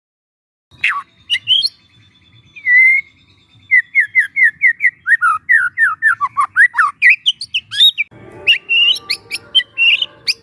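Young wild white-rumped shama singing: a few sharp calls, a held whistle, then a quick run of about a dozen falling whistled notes and some rising ones. Near the end the song turns harsher and buzzier under the whistles.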